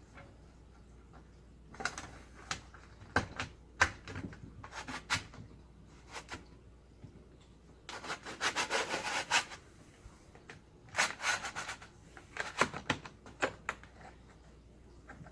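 Parts of a power slider window mechanism being worked and pushed into their housing: intermittent scraping and rubbing with a few sharp clicks, in longer stretches of rubbing about halfway through and again a few seconds later.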